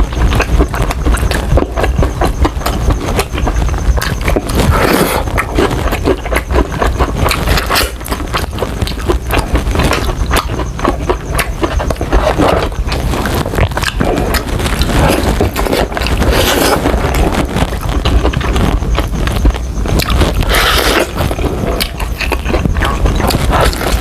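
Close-miked chewing of crispy fried chicken: a steady crackle of many small crunches with mouth noises, loudest in a few brief spells.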